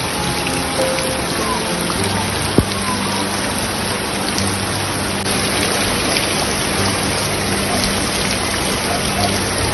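Steady rushing water noise, like a heavy downpour, with a faint low hum underneath and a single sharp click about two and a half seconds in.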